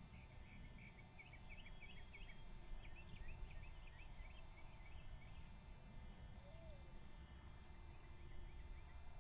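Faint bird chirping: quick runs of short, high chirps that pause in the middle and start again near the end, over a low steady rumble of wind on the microphone.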